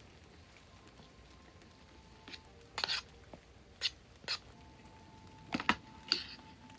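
A few short, sharp taps and knocks at irregular intervals, the loudest pair near the end, over a quiet background with a faint steady hum.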